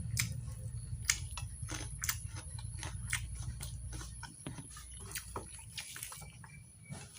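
Close-miked eating of mutton curry and rice: wet chewing and mouth smacks heard as a string of short, irregular clicks. A low hum runs under it and drops away about four seconds in.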